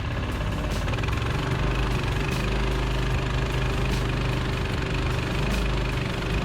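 Small single-cylinder pressure-washer engine driving a homemade mud motor, running steadily under way. Faint short swishes recur about every second and a half.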